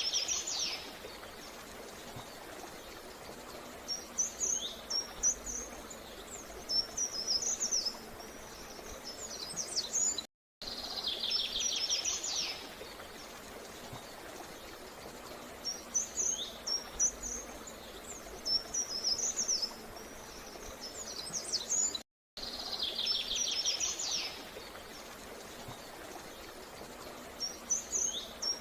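Small birds chirping in short, high phrases, each cycle opening with a fast trill. The same stretch of recording repeats as a loop about every 11 to 12 seconds, with a brief dropout between repeats, over a steady background hiss.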